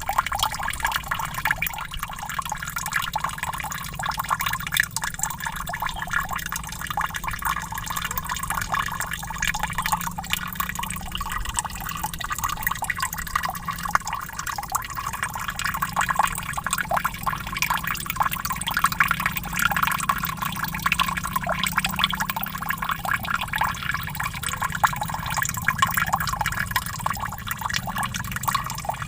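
Small waterfall splashing steadily, a dense patter of many small splashes and drips with no let-up.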